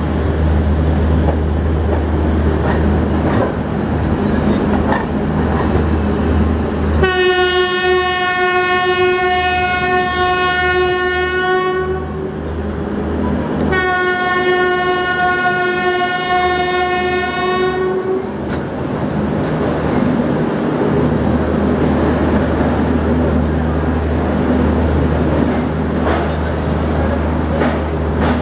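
Train running alongside a platform, heard from aboard a coach: a steady low rumble and wheel-on-rail clatter. Near the middle, the WAP-4 electric locomotive hauling it sounds its horn twice, two long steady blasts of about four to five seconds each, a couple of seconds apart.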